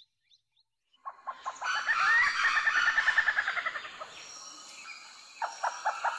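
A bird calling: a fast run of repeated notes starting about a second in, with an upward slide partway through, dying away near the four-second mark, then a second run starting near the end.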